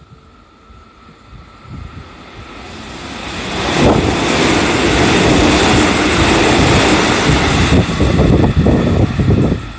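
JR Central 313 series electric train passing through a station without stopping. Its rushing noise builds from about three seconds in and stays loud through the middle, then turns to a rumble as the cars go by near the end.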